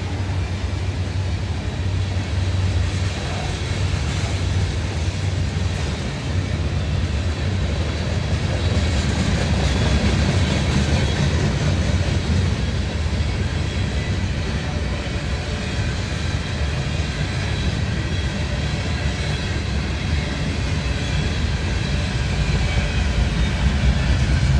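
Freight train rolling past, a steady rumble of wheels and cars on the rails.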